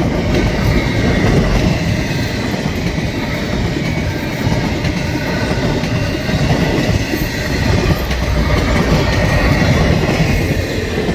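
Double-stack container freight cars rolling past close by: a steady, loud rumble and clatter of steel wheels on the rails, with a faint high wheel squeal over it.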